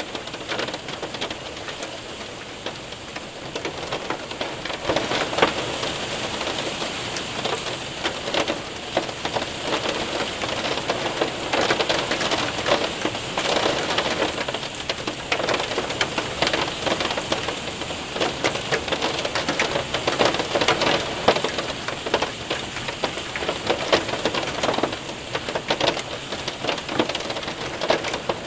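Hail and rain hitting a window and roof: a dense patter of small ticks over a steady rush of rain, swelling and easing every few seconds.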